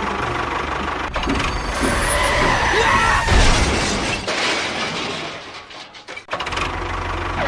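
A motor running steadily, with a louder rattling surge about three seconds in; it drops away near six seconds and picks up again.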